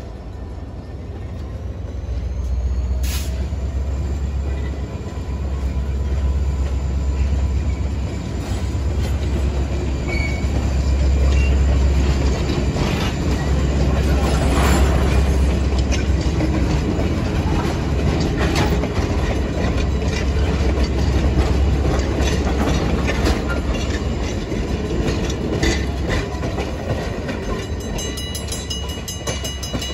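Diesel-hauled passenger train passing close by: a steady low rumble with the wheels clicking over the rail joints and crossing as the coaches roll past, fading as the train moves away at the end.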